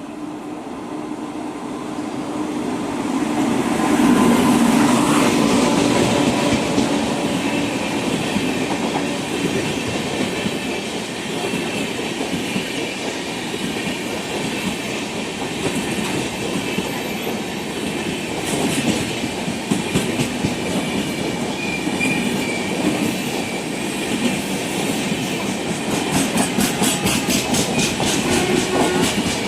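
Electric passenger train passing close by at speed: a steady rumble with wheels clattering over the rail joints, loudest about four seconds in, and a quick run of clicks near the end.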